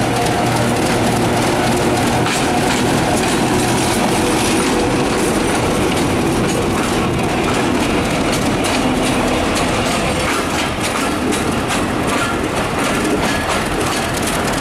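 Diesel locomotive-hauled passenger train passing close at low speed: the locomotive's engine hum in the first few seconds, then the coaches' wheels clacking over the rail joints in a steady rhythm.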